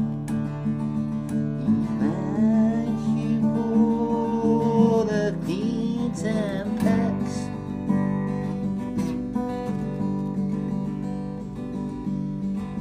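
Music: acoustic guitar strummed steadily, with a wavering, bending melody line over it in the middle.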